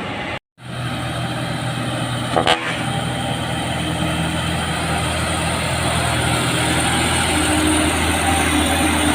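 Heavy truck's diesel engine running under load, a steady low hum that grows gradually louder as the truck draws near. A short sharp sound comes about two and a half seconds in.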